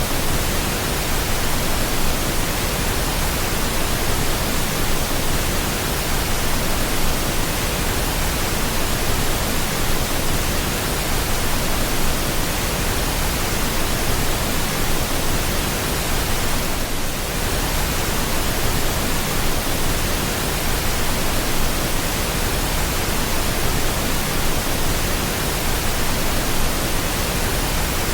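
Steady pink noise: an even, unbroken hiss spread across the whole range, with no pitch or rhythm.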